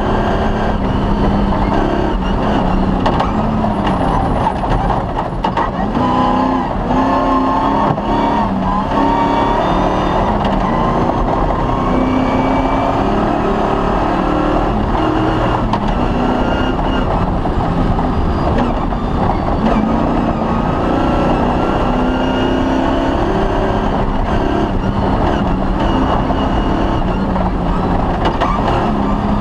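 Off-road rally car's engine running hard at speed, its pitch rising and falling again and again as it accelerates and backs off, over a constant low rumble.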